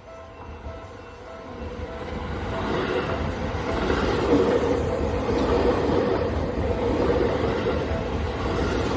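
Electric commuter train running past a level crossing. Its rumble and wheel noise build from about two seconds in and hold loud and steady. The repeated short tones of the crossing's warning bell show through underneath.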